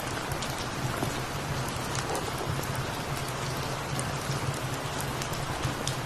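Steady rainfall with scattered drop ticks, over a steady low hum.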